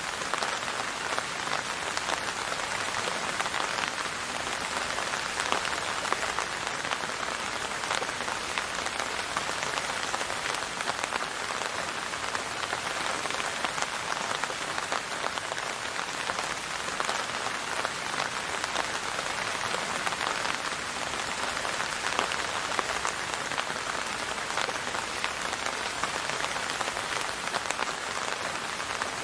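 Steady rain falling, a dense, even hiss of many small drop hits with no change in strength.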